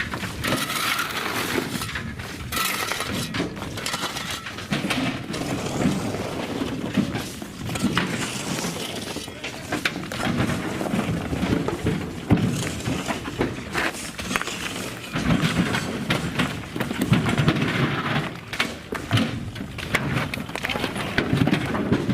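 Rubble stone pouring out of open railway wagon doors onto the trackside: a continuous, irregular clatter of rocks tumbling and knocking together.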